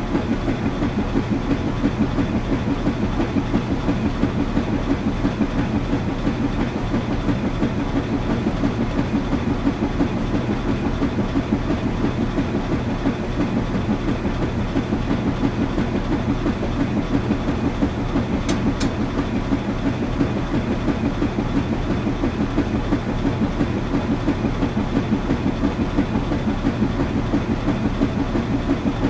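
Washing machine running, with a steady rhythmic churning pulse about three times a second over a low hum.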